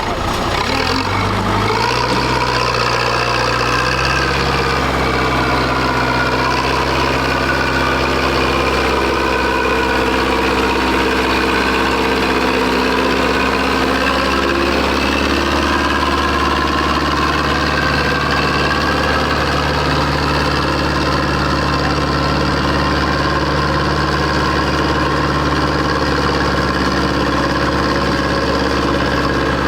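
Tractor engine running steadily and loud, its pitch drifting slightly up and down.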